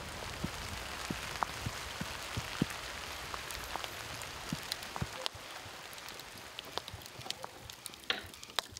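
Rain falling on a river's surface: a steady patter with many scattered sharp drop taps, growing quieter about five seconds in.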